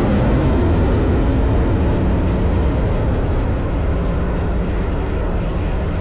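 Display aircraft flying past at an airshow: a loud, steady engine roar, heaviest in the low end, just after a falling pitch as it goes by, slowly easing off.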